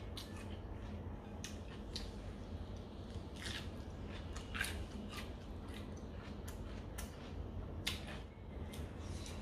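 A person chewing a mouthful of fried duck close to the microphone, with a run of small, irregular wet clicks and smacks, over a steady low hum.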